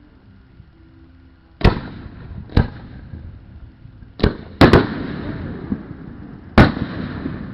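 Aerial fireworks shells bursting: six sharp bangs over about five seconds, two of them nearly together a little past the middle, each followed by a lingering rumble.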